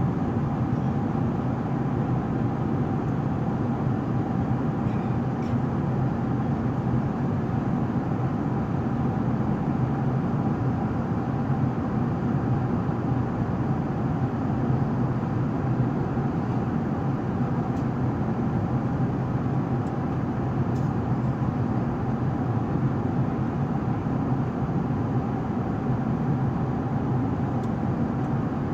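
Steady cabin noise of an Airbus A380 in flight: an even rush of engine and airflow noise with a low drone underneath, unchanging throughout.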